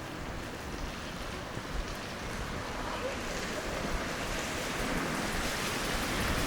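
Tyres of street traffic hissing on wet road, a steady wash of noise that grows louder toward the end as a vehicle approaches, with low rumble from wind on the microphone.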